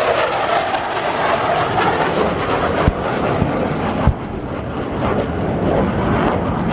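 Military transport aircraft flying over with slung loads, a loud steady rumble of engines and rotors, with two brief low thumps near the middle.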